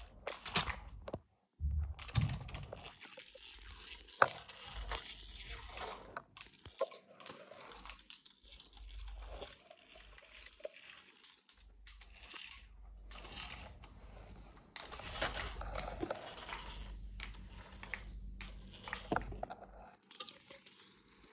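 Handling noises from plastic toy trucks: irregular clicks, small knocks and scraping as the toys are moved about.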